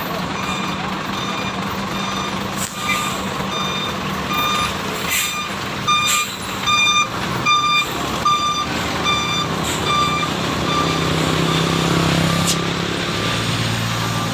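A heavy vehicle's reversing alarm beeping steadily about twice a second over a running diesel truck engine, with a few sharp knocks along the way.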